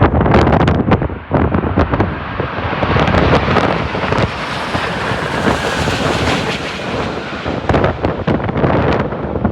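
Strong wind buffeting the microphone in gusts. Through the middle a broad jet-engine rush swells and fades as an airliner passes on its landing approach.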